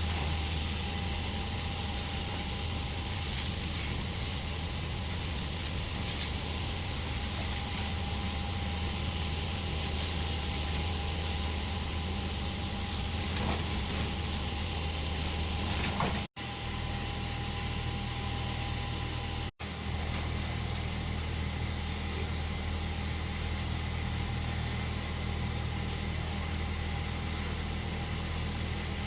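A motor running steadily with a low hum, cutting out abruptly twice.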